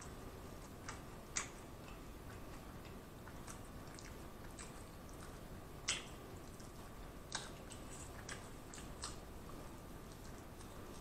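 A person chewing a stacked Big Mac: faint mouth noises with scattered sharp lip smacks and clicks at irregular intervals, the loudest about six seconds in.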